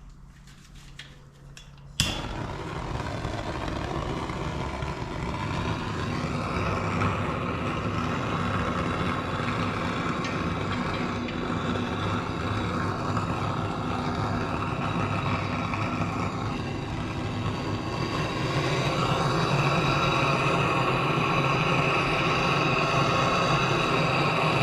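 A heating tool switched on abruptly about two seconds in, then a steady blowing rush that gets a little louder near the end, as the aluminium engine case is heated so that frozen bearings will drop into it.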